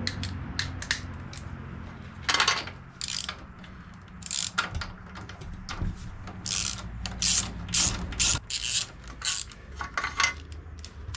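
Ratchet wrench clicking in short, irregular bursts as a spark plug is loosened and backed out of the non-firing cylinder of a lawn tractor engine.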